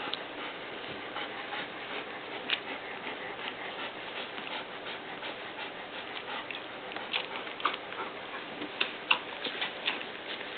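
Puppies about three weeks old moving about, with many scattered light clicks and a couple of brief faint squeaks near the end.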